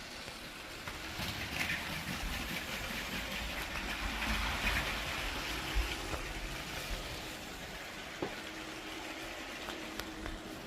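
Lego train running along plastic track, getting louder as it approaches and fading as it moves away, with a few sharp clicks over the track.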